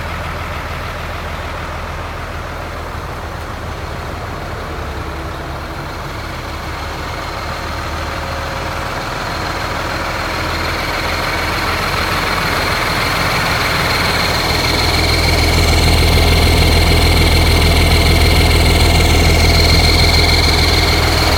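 1986 Mack dump truck's diesel engine running at idle, growing louder through the middle of the stretch and holding there. A steady high-pitched whine joins it in the second half.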